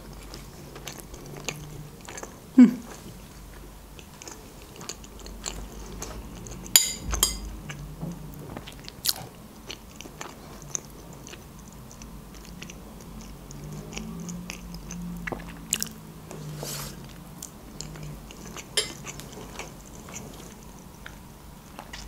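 Close-miked chewing and biting of soft food, meat-stuffed eggplant and rice, with wet mouth clicks and scattered sharp clicks; the loudest click comes about two and a half seconds in.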